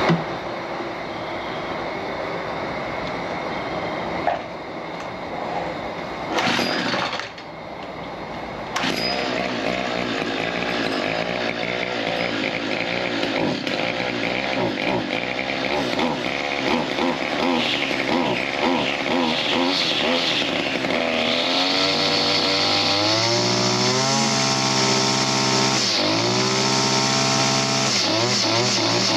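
Stihl FS 55 RC string trimmer's small two-stroke engine running just after a tune-up. It runs unevenly with a few sharp knocks at first, settles into a steady idle, then about two-thirds of the way in revs up and holds at high throttle, dipping briefly once.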